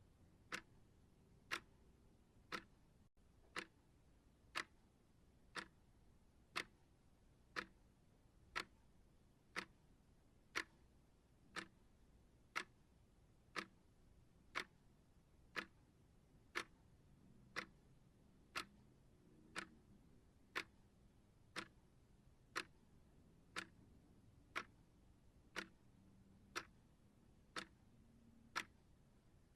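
Clock ticking steadily, one short sharp tick about every second.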